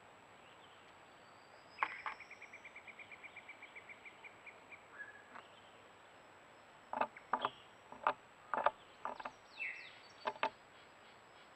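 Outdoor sounds with a bird giving a fast, even trill of about nine notes a second for nearly three seconds. Several short sharp calls or snaps follow later on.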